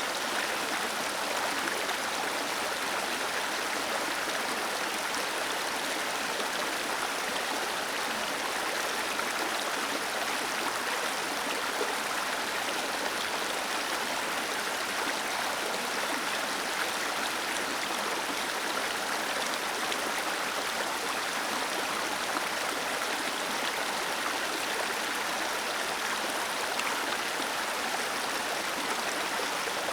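Small waterfall cascading steadily, a constant even rush of falling water.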